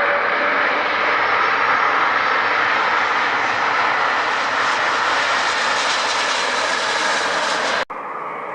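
Airplane engines running in a loud, steady rush of noise, which cuts off abruptly near the end and gives way to a quieter sound.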